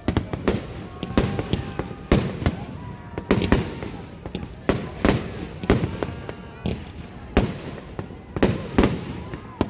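Aerial fireworks bursting in quick succession: sharp bangs, about one to two a second, each with a short rumbling decay.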